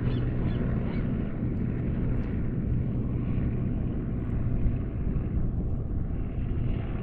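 A steady low engine drone, with a few short gull calls in the first second.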